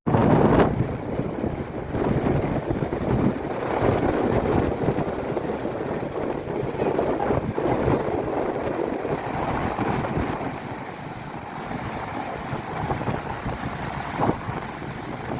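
Strong sea wind buffeting the microphone in a continuous rumbling rush, with ocean surf behind it.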